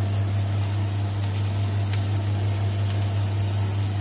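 Chopped onions and green chillies frying in oil in a pan with a steady sizzle, under a loud, constant low electrical hum.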